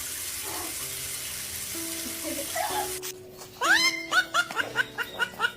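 Running water hissing steadily for about three seconds, as for a parrot's bath, then a quick series of short rising chirps about five a second. Background music plays throughout.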